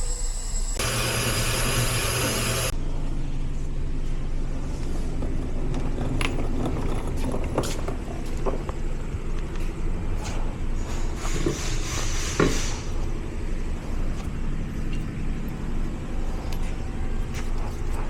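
Car on the move with a steady low rumble, and a loud rushing noise for about two seconds near the start. Scattered light clicks and rattles throughout.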